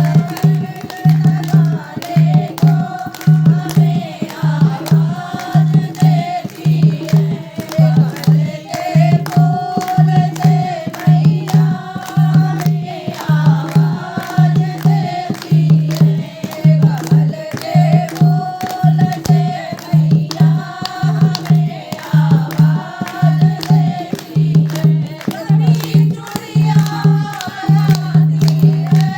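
Devotional song to the Mother goddess: singing over a steady, evenly repeating low beat.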